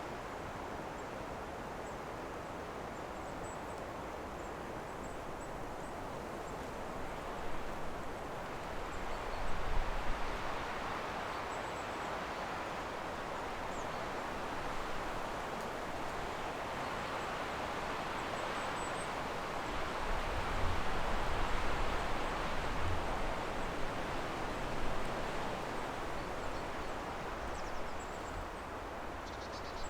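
Wind blowing through forest trees as a steady rushing hiss that swells in gusts twice, with low rumbles of wind on the microphone during the gusts.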